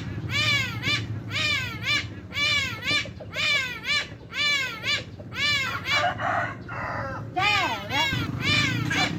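A bird calling over and over in short cries that rise and fall in pitch, about two a second, with a brief break about six seconds in.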